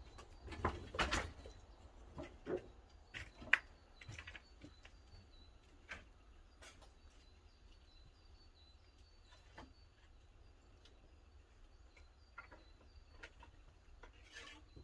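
Sharp clicks and knocks, several louder ones in the first four seconds and sparser ones after. Through the middle, a bird repeats a short high chirp about twice a second.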